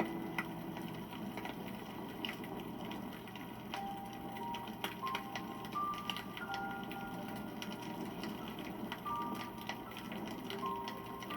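Campfire burning, with continual crackling and sharp pops of the wood over a low steady rush of flame. A few faint, short, steady high tones at shifting pitches sound through the middle and near the end.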